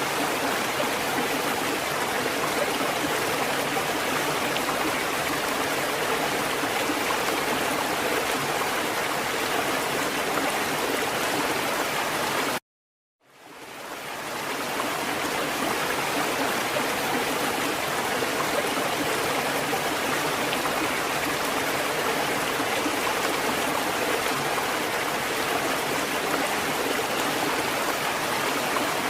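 Water fountain running, a steady splashing and trickling of water. About halfway through it cuts out abruptly for about half a second, then fades back in over a second or so, like a splice in a looped recording.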